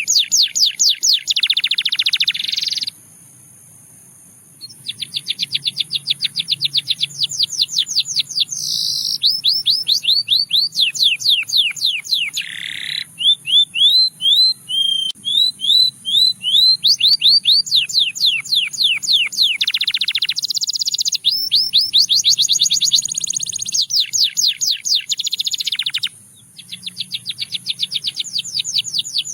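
Russian singing canary singing in long fast trills of quickly repeated, sweeping high notes, the speed of the notes changing from one trill to the next. The song breaks off for a moment about three seconds in and again briefly near the end.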